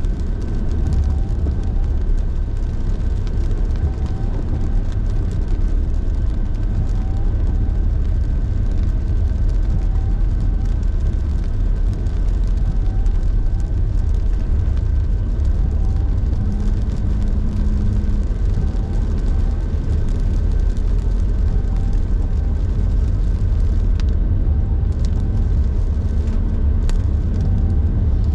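A car driving at speed: a steady low rumble of engine and road noise, with a faint steady tone above it.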